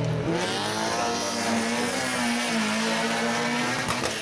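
Racing car engine revving hard as it climbs past, its pitch rising and then held high before dropping near the end.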